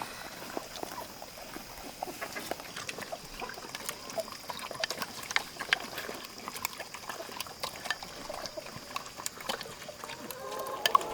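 Farmyard animal sounds: scattered small clicks and rustles over a faint steady high tone, with a chicken starting to cluck near the end.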